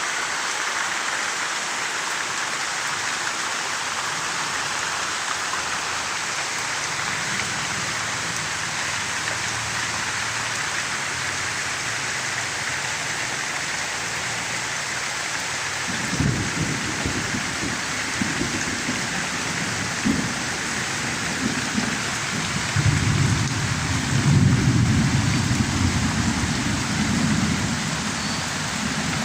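Steady rain falling, an even hiss. From about halfway through, low irregular rumbling joins it and grows heaviest near the end.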